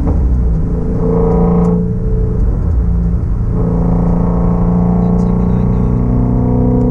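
Shelby GT350's 5.2-litre flat-plane-crank V8 and exhaust running on a gentle drive, the engine note changing pitch about a second in and again about three and a half seconds in, then holding a steady cruise.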